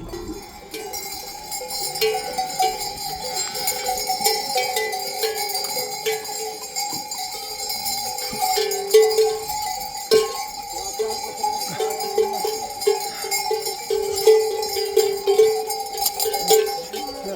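Bells worn by a flock of sheep and goats, clanking and ringing continuously with many overlapping clinks.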